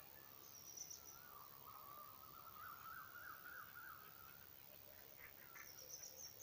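Faint birdsong in quiet surroundings: a long wavering call for about three seconds mid-way, with short high chirps near the start and again near the end.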